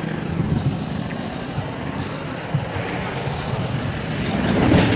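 A vehicle running, a steady low rumble that swells a little near the end.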